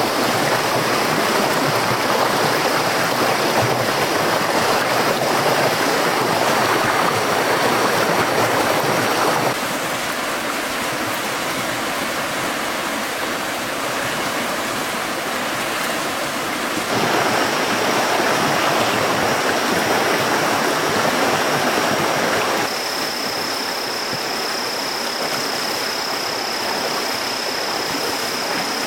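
Steady rushing noise like running water, with a thin high steady tone above it. It shifts abruptly in loudness and character three times.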